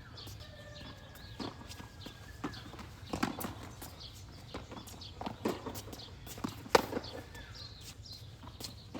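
Tennis balls struck with rackets and bouncing on a hard court, a run of irregular sharp pops with footsteps between them. The loudest strike comes a little before 7 seconds.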